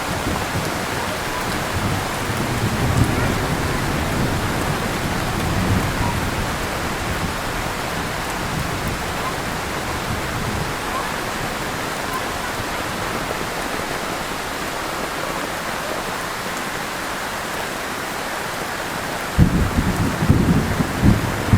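Heavy rain falling steadily, an even hiss of rain on surfaces. Low rumbling comes and goes in the first few seconds and returns louder and more uneven about two seconds before the end.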